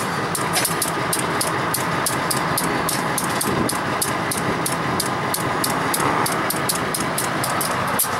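EMD diesel switcher locomotive and its train on the move: a steady rumble of engine and rolling wheels, with a rapid high clicking about four times a second.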